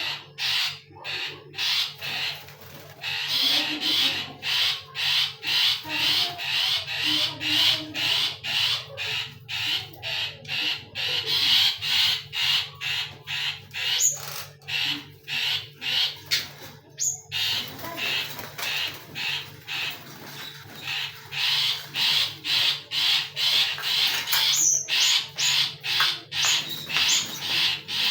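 Caged birds calling: a steady run of short, harsh notes, about two or three a second.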